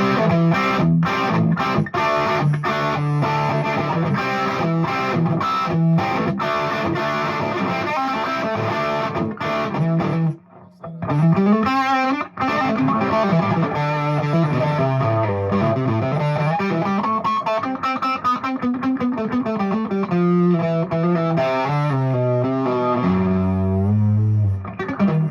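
Overdriven electric guitar: a 2007 Gibson Les Paul Standard played through a Fuchs Train-45 tube amp with 6V6 power tubes and Vintage 30 speakers. It plays chugging rhythm chords, then after a short break about ten seconds in, single-note riffs with slides and bends.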